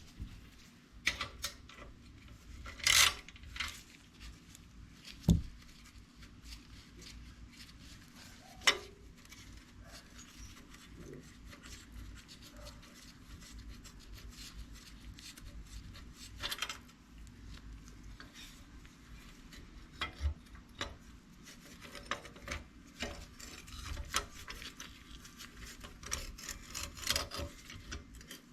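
Hand tools working on a small MTD 265-SU engine during teardown: scattered clicks, scrapes and rubbing of metal tools and parts, with a few sharper knocks in the first ten seconds and denser clicking near the end.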